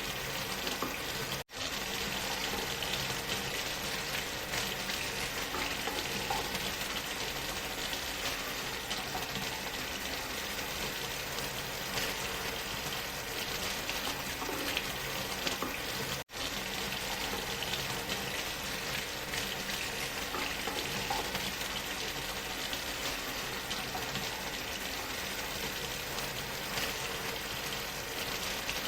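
Steady rushing noise of a waterfall, even and unbroken except for two split-second dropouts, about a second and a half in and again about sixteen seconds in.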